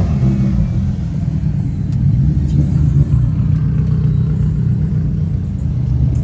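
Low, steady rumble of car engines and exhausts.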